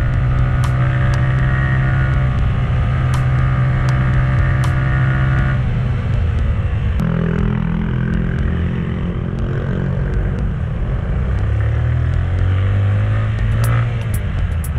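A motor vehicle's engine running steadily. Its pitch drops and shifts about six seconds in, and there are rising and falling glides later on.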